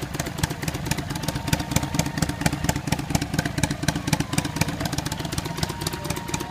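Kawasaki Vulcan 400 Drifter's V-twin engine idling steadily, with an even, rapid pulse from the exhaust. The seller describes the engine as running well despite the high mileage.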